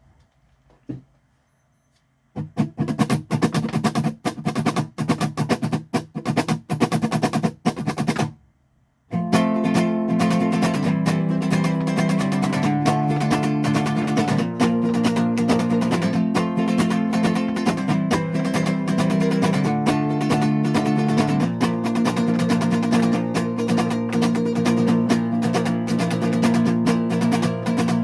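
Guitar strumming that starts about two seconds in after near silence. It breaks off briefly around eight seconds, then resumes as continuous strummed chords.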